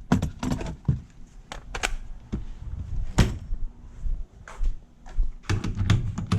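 Scattered clicks and knocks of a cordless drill being handled as its battery is swapped out; one sharper knock about halfway through.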